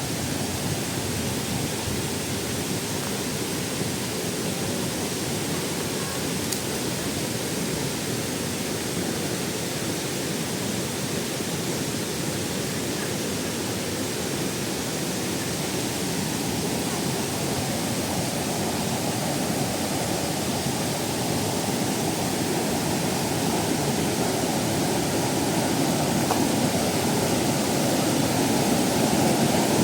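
Waterfall cascading over rock tiers, a steady rush of falling water that grows gradually louder toward the end.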